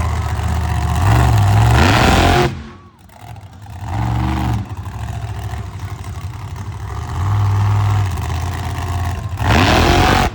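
Monster truck engine revving hard in loud surges, one about a second in and another near the end. Each surge drops off sharply as the throttle is let off, with steadier, quieter running in between.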